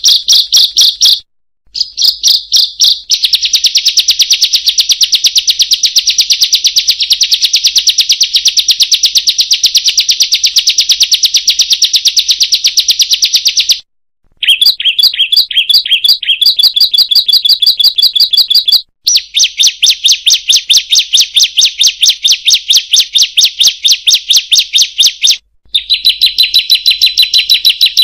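Ciblek (bar-winged prinia) song: a fast, even run of high 'kriek' notes repeated many times a second. It breaks off abruptly for a moment four times.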